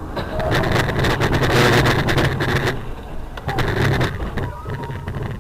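Car collision heard from inside a vehicle: a loud crash of crunching and rattling impacts lasting about two and a half seconds, then a second shorter burst of knocks about three and a half seconds in.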